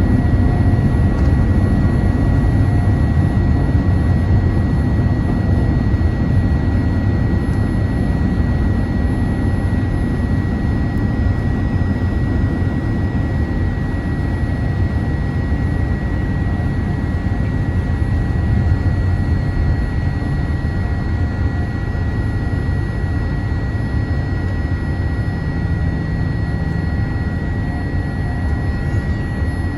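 Cabin noise inside a Boeing 787-8 airliner: a steady low rumble of jet engines and airflow with a thin steady high tone above it, easing slightly in level over the span.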